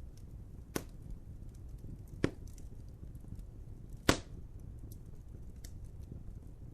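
Wood fire crackling, with a steady low rumble and scattered small ticks. Three sharp pops come about a second and a half apart, the third the loudest.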